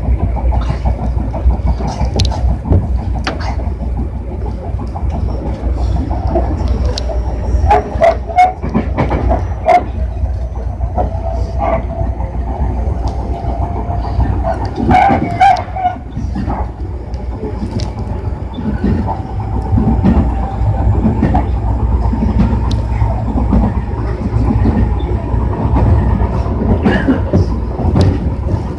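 Tobu 60000 series electric train running: a steady low rumble with sharp clacks of the wheels over rail joints at uneven spacing, and a faint steady whine that comes and goes.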